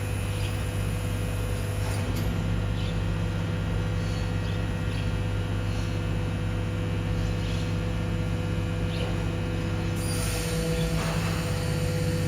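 BYD battery-electric garbage truck's hydraulic compactor running steadily, a constant hum with several fixed tones and a few faint ticks.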